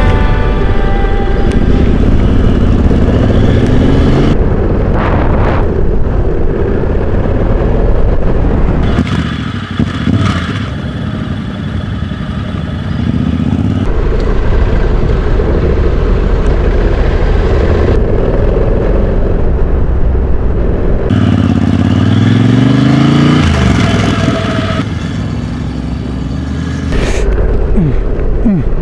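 Adventure motorcycle engines riding off-road, accelerating with the engine note rising twice, over a heavy low rumble. The sound changes abruptly several times between shots.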